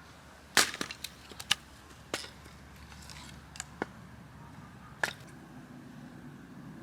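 Firewood cracking and snapping: a loud sharp crack about half a second in, then several smaller cracks at irregular intervals.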